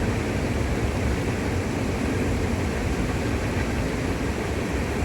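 Train running over a river bridge: a steady low rumble with no distinct wheel clacks.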